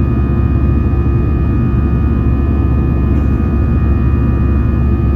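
Steady cabin noise inside an Airbus A320-214 airborne after take-off: the roar of its CFM56 jet engines and the airflow, with a deep rumble and several steady hums and whines over it.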